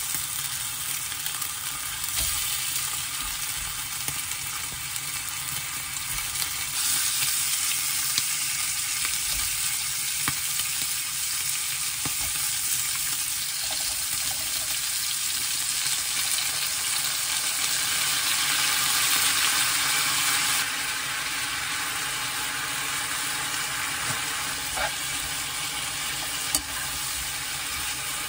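Pork belly slices sizzling and frying in a hot nonstick frying pan: a steady, dense hiss.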